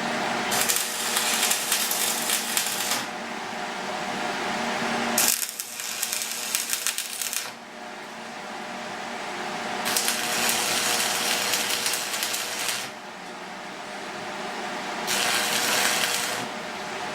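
MIG welder laying short weld beads on steel: four runs of dense crackling and sizzling, each a couple of seconds long, with brief pauses between, over a steady machine hum.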